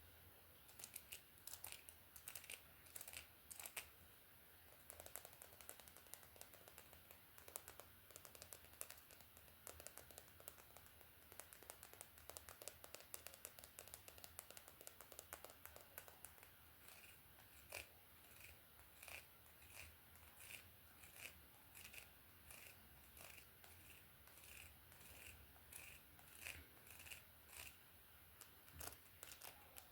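Soft, close-miked hair combing: a comb or brush drawn through hair in quick scratchy strokes, settling about halfway into an even rhythm of roughly one stroke a second.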